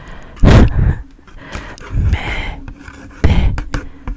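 Close-miked breathing: three short breathy puffs and murmurs, the loudest about half a second in.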